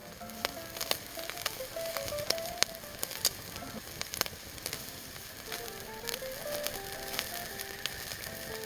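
Meat sizzling on a grill over a charcoal fire, with a steady hiss and frequent sharp pops and crackles of spitting fat. A simple background melody plays along.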